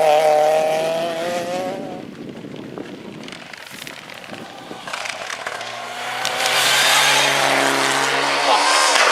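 Rally car engine at high revs passing by and fading away in the first two seconds. About five and a half seconds in, another car's engine comes in and grows louder, its note held steady.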